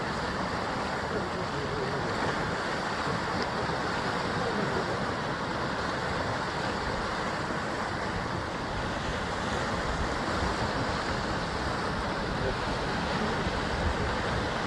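Sea waves washing steadily against a rocky basalt coastline, with some wind noise on the microphone.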